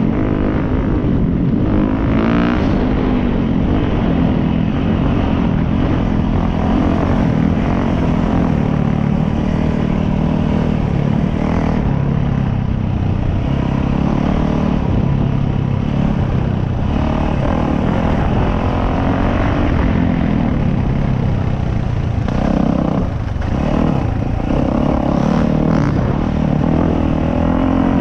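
Dirt bike engine running under way on a trail, its pitch rising and falling with the throttle.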